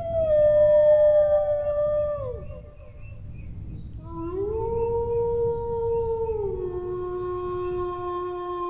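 Dog howling in two long howls. The first ends about two and a half seconds in, falling in pitch. The second starts about a second and a half later, rises, holds, then steps down to a lower pitch and carries on.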